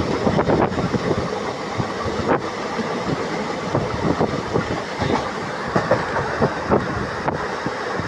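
Train running over a railway bridge: steady noise from the wheels and cars, with many short, irregular clicks.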